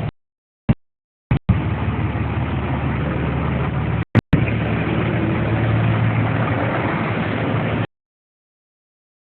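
A fire engine's engine running steadily. The recording keeps cutting out to dead silence: a couple of short snippets at first, a brief gap partway through, and a sudden full dropout near the end.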